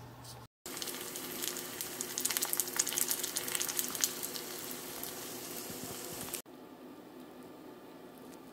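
Egg rolls frying in hot oil in a cast-iron skillet, sizzling steadily with many small crackling pops. About six seconds in it cuts off to quiet room tone.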